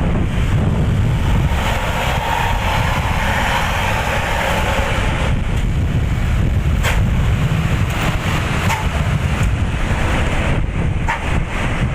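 Intercity bus engine running through a newly fitted aftermarket exhaust, a steady deep sound with wind noise on the microphone.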